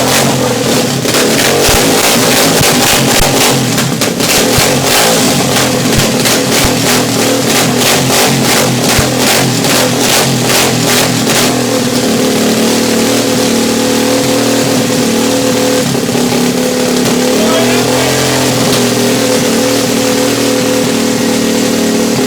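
Giovanni 250cc dirt bike engine running through its cold-start warm-up. It pulses unevenly for about the first half, then settles to a steadier running note.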